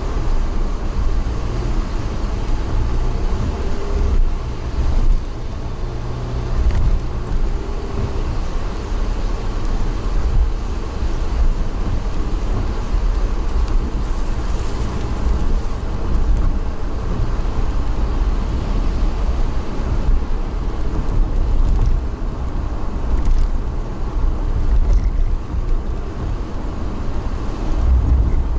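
Steady low rumble of a moving vehicle, with a level noise of running over road or track and no distinct events.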